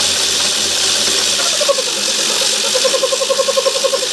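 Myford ML7 lathe running in reverse, its motor and gears whirring as the carriage travels back along the leadscrew between thread-cutting passes. From about two-thirds of the way in, a fast, even pulsing rattle joins the steady run.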